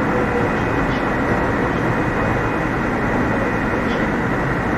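Keio 7000 series electric train running, heard from inside the passenger car: a steady rumble of wheels on rail with a faint high tone over it. There is a faint tick about a second in and another near the end.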